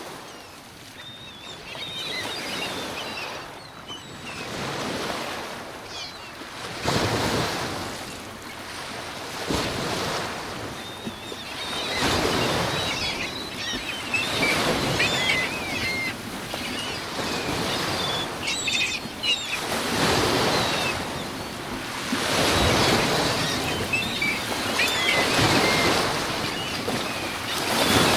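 Lake surf breaking in high wind, surging in loud swells every few seconds, with birds calling high above it.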